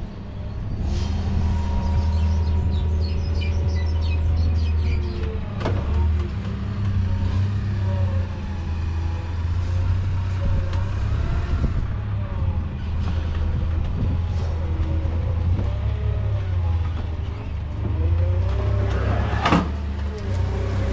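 A vehicle engine running steadily with a deep rumble. Wavering whine-like tones ride above it. Two sharp knocks or clanks sound, one about six seconds in and a louder one near the end.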